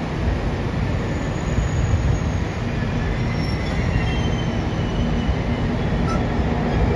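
JR Kyushu 787 series electric train rolling slowly into the platform, a steady rumble of wheels on rail with thin high-pitched squealing that starts about a second and a half in.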